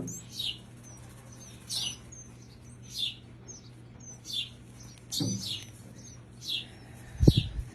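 Hand-reared nestling birds cheeping: short, high, downward-sliding calls about once a second, with fainter quick chirps between, the begging calls of baby birds being fed. A single loud low thump near the end.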